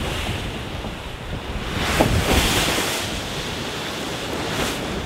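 Wind buffeting the microphone and sea water rushing along the hull of an ocean racing yacht under sail, with a louder surge of water about two seconds in.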